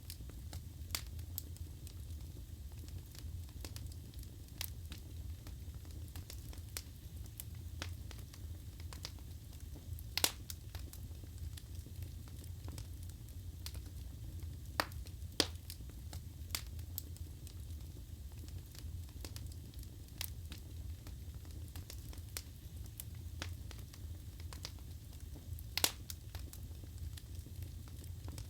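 Wood fire burning in a fireplace: a steady low rumble of flames with irregular crackles and pops of the burning logs, a few sharper pops standing out.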